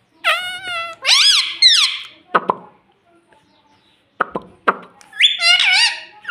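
Indian ringneck parrot giving high-pitched chattering calls that rise and fall in pitch, in bursts near the start and again near the end, with three sharp clicks in the pause between.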